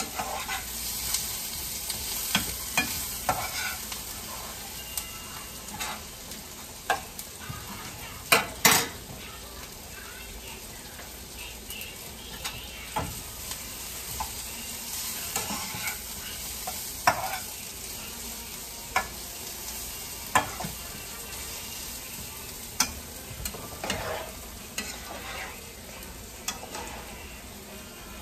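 Sliced potatoes and onions frying in oil, a steady sizzle, while a metal fork stirs the onions with repeated clinks and scrapes against the pan. Two louder clanks come about eight seconds in.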